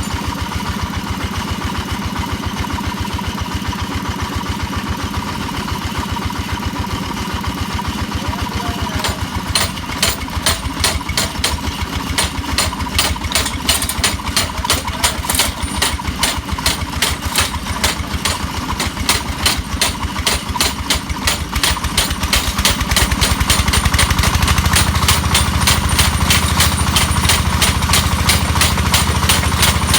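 Engine-driven hammer drilling machine running: the engine runs steadily at first, then about nine seconds in the hammer starts striking rapidly, roughly four to five blows a second. The engine grows louder in the last several seconds.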